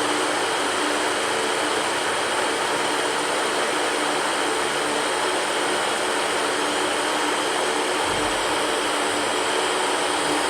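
Electric fan running steadily: an even whooshing rush of air with a faint, steady hum under it.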